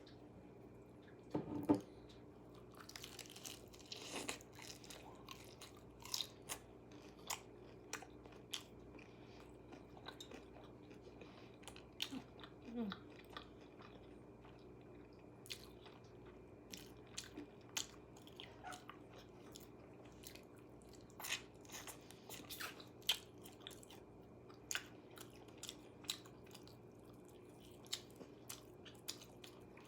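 A person eating KFC close to the microphone: crisp crunching bites and chewing, in irregular sharp crackles every second or so, the loudest bite about a second and a half in. A faint steady hum runs underneath.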